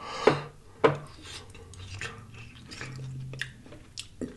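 Close-miked chewing of crunchy fried food, with two sharp, loud crunches about a third of a second and just under a second in, then quieter clicks.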